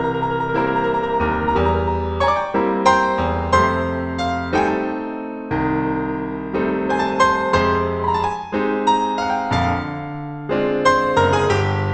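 Piano music, with many notes struck in quick succession and a softer held passage about halfway through.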